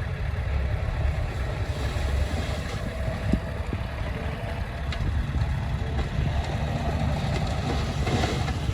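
Heavy diesel engine of earth-moving machinery running with a steady low rumble.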